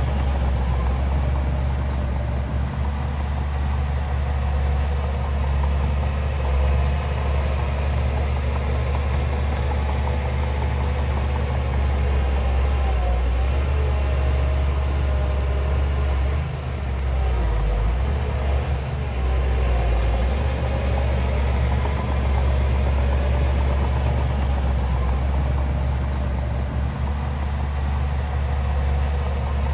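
Heavy diesel engine of earthmoving machinery running steadily with a deep, low drone, dipping briefly about sixteen seconds in.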